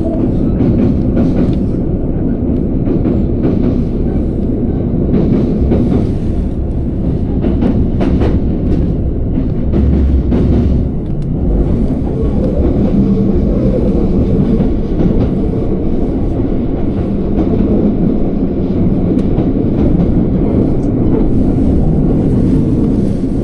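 Electric commuter train running at speed, heard from inside the passenger car: a steady loud rumble of wheels on rail with a faint motor hum, and now and then a sharp click as the wheels pass over rail joints.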